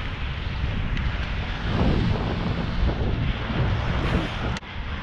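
Wind rushing over the microphone while riding an electric Onewheel board, with the board's motor and tyre running underneath. The level dips sharply for a moment near the end.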